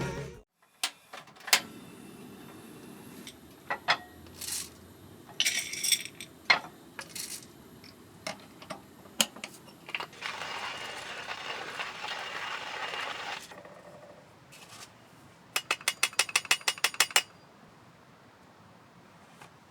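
Small metal clinks and clicks of camp gear being handled, with a few seconds of steady hiss in the middle and a quick run of about a dozen clicks in under two seconds near the end.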